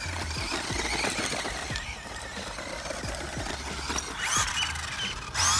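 Electric RC monster truck driving on loose gravel: a high motor whine, with gravel clicking and crunching under the tyres. A louder whine that sweeps up and down in pitch starts near the end.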